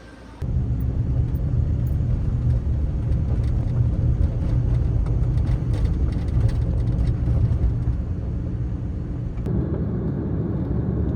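Honda N-VAN kei van driving along a road: a steady low rumble of engine and tyre noise that starts abruptly about half a second in, its tone shifting slightly near the end.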